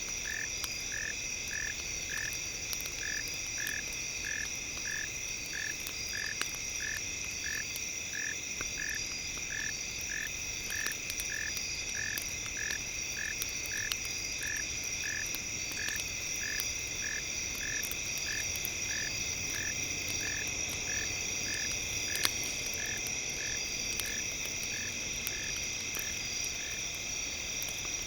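Campfire crackling in scattered small pops over a steady high chirring, with a short call repeating about three times every two seconds, like frogs or insects at night.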